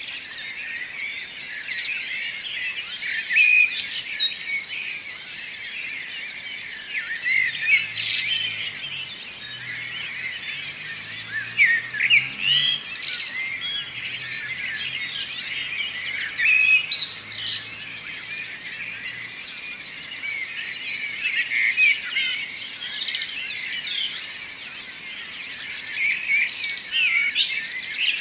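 Several songbirds singing together in a morning chorus, a dense mix of overlapping chirps and short trills. A faint low hum runs underneath through the middle part.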